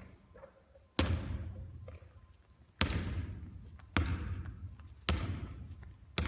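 Basketball hitting a hard court, five separate bounces about a second or so apart, each ringing out with an echo.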